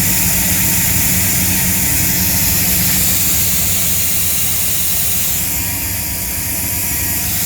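Third-gen Camaro's small-block Chevy V8 running steadily in gear, spinning its own rear wheel hub as a makeshift lathe, with a faint steady whine over the engine note.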